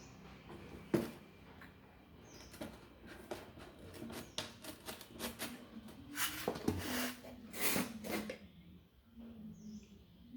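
Small clicks and knocks of fan parts being handled during a shaft and bearing repair, with two longer rushing noises between about six and eight seconds in and a few faint high chirps.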